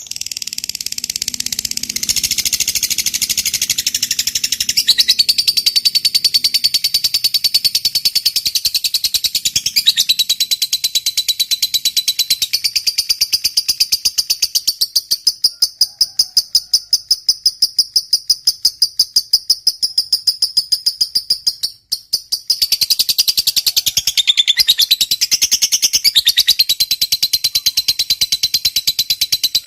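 Lovebird giving a long ngekek: a rapid, unbroken chatter of high-pitched pulses that breaks off for a moment about 22 seconds in and then starts again.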